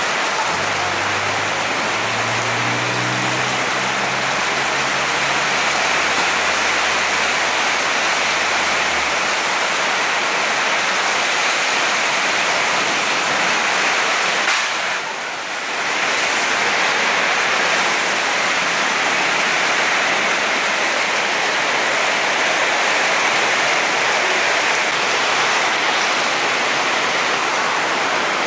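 Heavy rain pouring down in a storm with strong wind, a steady loud hiss. A low hum underneath stops about nine seconds in, and the hiss dips briefly about halfway through.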